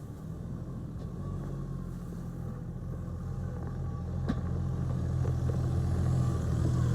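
Diesel engine of a JCB loader running steadily and growing louder, with a single sharp knock about four seconds in.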